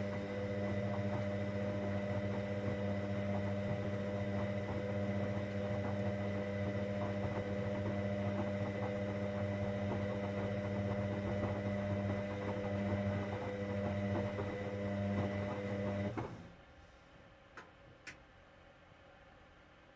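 Hoover Dynamic Next washing machine humming steadily during a cotton 60 wash. The hum cuts off suddenly near the end, followed by two faint clicks.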